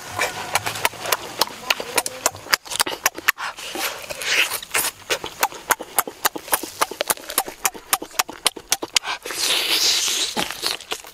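Close, wet eating sounds of a person chewing and lip-smacking on roasted turkey meat, tearing it off the bone, heard as a rapid, irregular run of smacks and clicks. There are longer breathy noises about four seconds in and again near the end.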